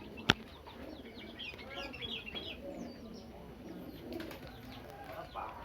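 Caged pigeons and doves cooing, with many small chirps over them. A single sharp click, the loudest sound, comes about a third of a second in.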